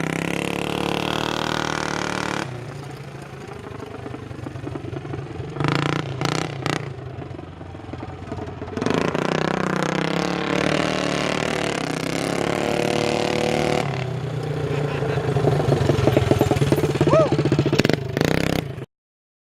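Coleman CT200U minibike's single-cylinder four-stroke engine running through a Robertson's Torque Tube side-exit loop exhaust pipe. It fades back from about two seconds in, picks up again about halfway through, is loudest near the end, and then cuts off suddenly.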